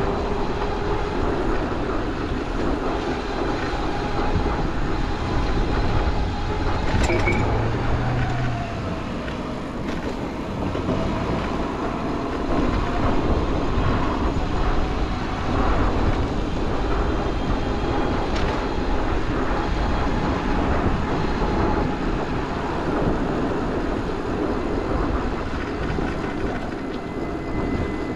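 Continuous street noise heard from a moving bicycle: the steady rumble of downtown traffic and a streetcar running on its rails, with wind on the microphone.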